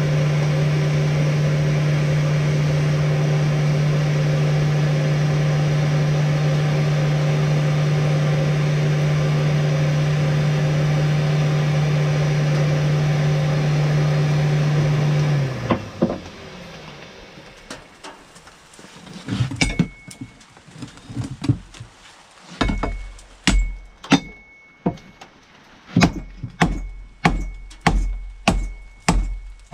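A steady electric motor hum runs and then winds down and stops about halfway through. After a short pause, hammer blows on steel at the anvil begin, each with a high ringing note. They settle into a steady rhythm of about two strikes a second.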